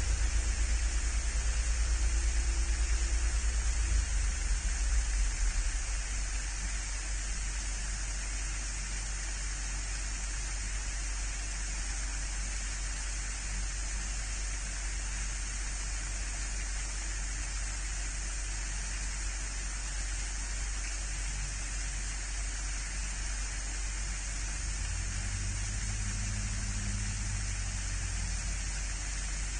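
Steady hiss of outdoor background noise picked up by a livestream camera's microphone, with a low rumble that eases off about six seconds in.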